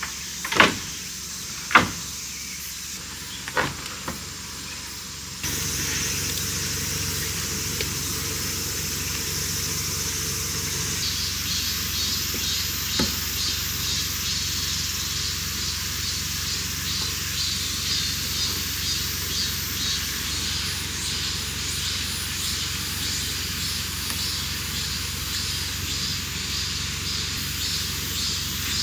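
Three sharp knocks. Then, from about five seconds in, a sudden switch to a steady, loud hiss with a faint fast ticking running through it.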